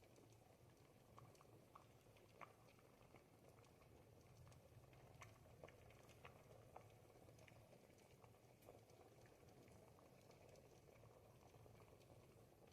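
A pot of ribollita, a thick Tuscan bread-and-vegetable soup, simmering: faint steady bubbling with many small scattered pops.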